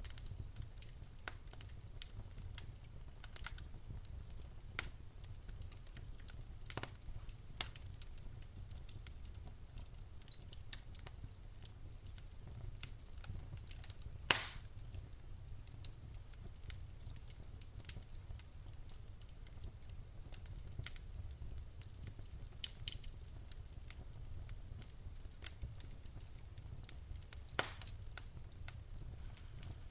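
Wood fire crackling in a fireplace: irregular sharp pops and snaps over a low steady rumble, with one louder pop about halfway through.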